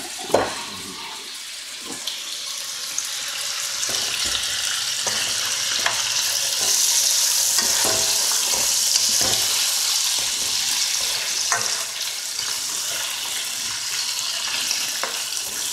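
Frozen parboiled chips frying in hot beef dripping: a steady sizzle that swells over the first few seconds, with a few light clicks.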